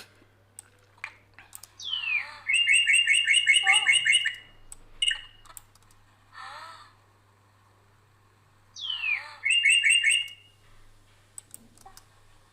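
Bird-song sound effect: a songbird phrase made of a quick falling sweep and then a fast trill of repeated chirps, heard twice, about six seconds apart. A faint low hum runs underneath.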